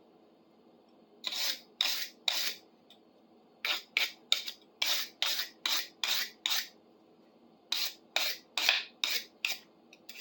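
Hand wire brush scrubbing rust off the steel threads of an old pipe wrench, in short back-and-forth scraping strokes. There are three runs of strokes with short pauses between.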